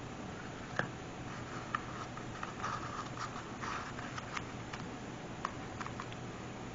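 Scattered small clicks and soft rustling from craft materials being handled at a table, with a steady low hum underneath.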